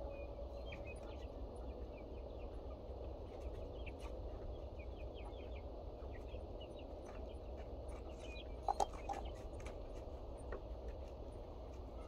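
Birds chirping in short scattered calls over a low steady rumble, with two short louder calls close together about nine seconds in.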